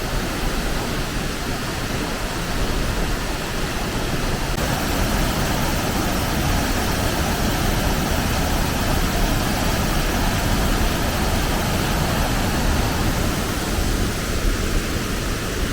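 Waterfall and stream running in heavy flood after a typhoon: a steady, loud rush of water.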